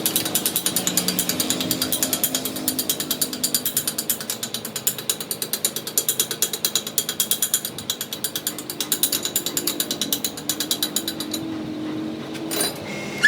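Rapid, even metallic ticking from a workshop machine or tool, about ten clicks a second, which stops near the end, followed by a single knock.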